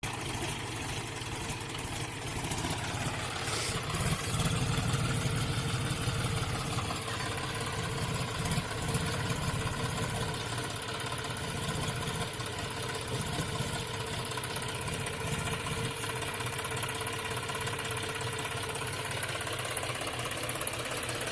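Modified John Deere tractor's diesel engine running, its speed shifting in the first several seconds and then holding steady.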